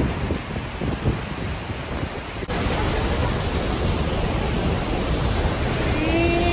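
Waterfall roar with wind buffeting the microphone. There is an abrupt cut about two and a half seconds in, after which the rushing is steadier.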